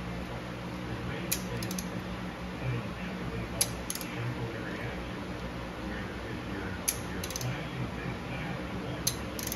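Light metallic clicks of hand tools on metal, coming in quick pairs every two to three seconds, over a steady low hum.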